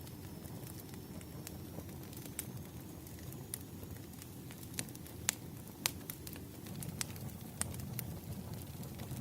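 Wood fire burning, a steady low rumble with irregular sharp crackles and pops from the burning logs, a few louder snaps around the middle.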